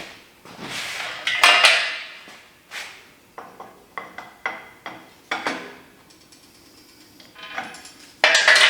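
Metal clanking and knocking from steel landing-gear parts and tools being handled: a series of separate knocks, the loudest about a second and a half in and again near the end.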